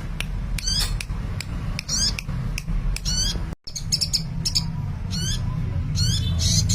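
Sunbird, kept as a 'kolibri' songbird, giving short, high, zigzagging chirps over and over, over a steady low hum. The sound cuts out briefly about halfway through.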